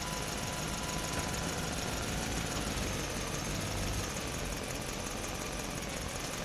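A small motor running steadily, with a faint whine that wavers a little in pitch.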